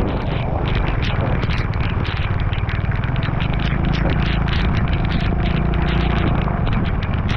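A motor vehicle's engine running steadily during a ride in the rain, under a heavy low rumble of wind on the camera, with many short ticks from raindrops.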